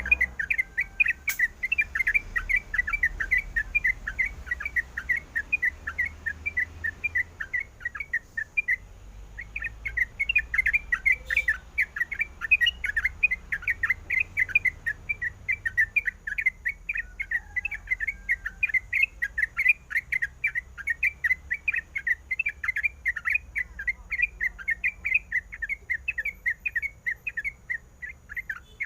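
Yellow-vented bulbul (trucukan) chirping in a fast, steady run of short notes, with a brief pause about eight seconds in.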